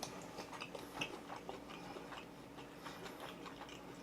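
Faint chewing of food, with small scattered clicks from the mouth.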